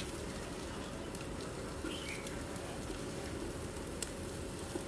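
Faint steady sizzle of whole button mushrooms and chopped garlic frying in oil in a pan, with a couple of faint high chirps about two seconds in.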